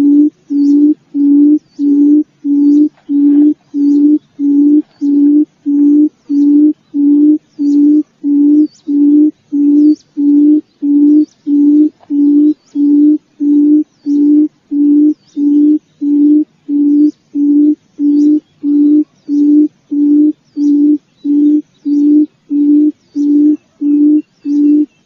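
Forest quail (puyuh hutan) calling: a low hooting note repeated evenly, about one and a half times a second.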